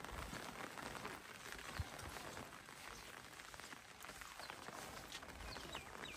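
Light rain falling, heard as a steady hiss, with soft irregular footsteps on a wet path. A few short high chirps start about two-thirds of the way through.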